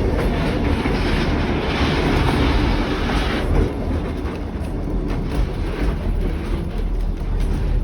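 Kuranda Scenic Railway train running on the track: a steady low rumble with clicks of the wheels over the rails. The higher hiss eases about halfway through.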